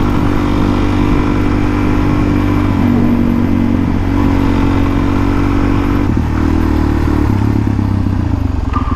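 Dirt bike engine running steadily, its note shifting slightly about six seconds in.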